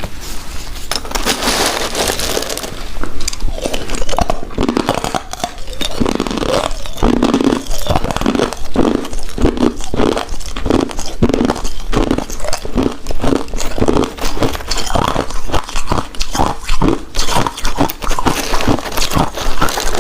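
Close-miked chewing of a soft, chewy coconut-coated rice cake. It settles into a steady rhythm of about two chews a second after a noisier crunching, rustling stretch near the start.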